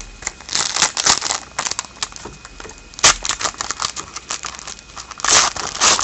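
Trading card pack wrappers crinkling and tearing as packs of hockey cards are opened, in three or so bursts of rustling with quieter handling between.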